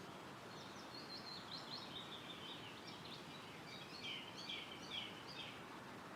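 A small songbird singing a long run of quick, varied high chirps, loudest just past the middle, over a steady rustle of wind through woodland trees.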